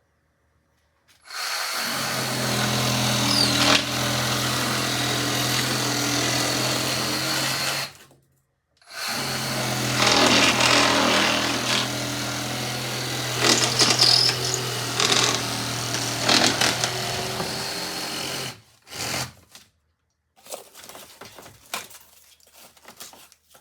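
Reciprocating saw (Sawzall) cutting into foam board: the motor runs steadily for about seven seconds, stops briefly, then runs again for about nine seconds while the blade rasps through the foam. Light clicks and rustling follow near the end.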